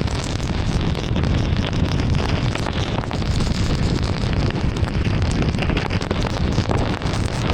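Heavy rain on a moving car, a steady dense roar of water and tyre and wind noise with scattered drop ticks.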